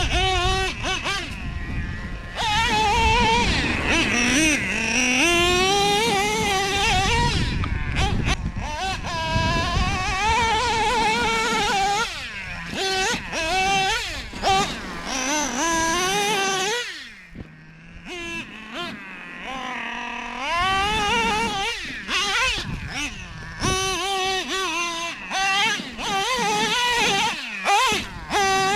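Traxxas Revo 3.3's OS 21TM two-stroke nitro engine revving up and down over and over as the RC monster truck is driven, dropping back briefly to a lower, quieter note about two-thirds of the way through.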